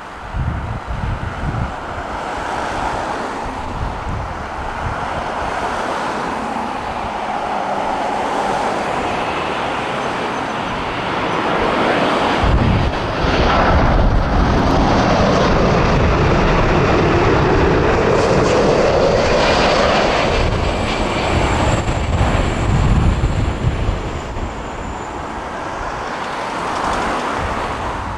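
Boeing wide-body jet airliner passing by, its engines swelling to their loudest around the middle, with a high fan whine that falls in pitch as it goes away.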